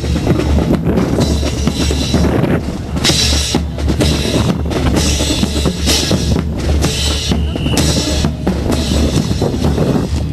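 Drum-led band music, with snare and bass drums playing a dense, steady rhythm of sharp strikes.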